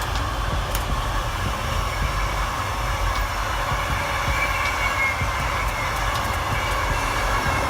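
Train rolling past on the rails: a steady rumble of wheels on track, with a faint high wheel squeal about four to five seconds in.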